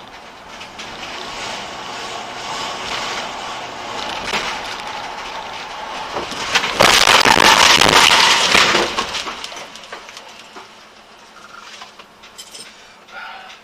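Car on the road with steady driving noise, then a loud crash about seven seconds in that lasts about two seconds before dying away.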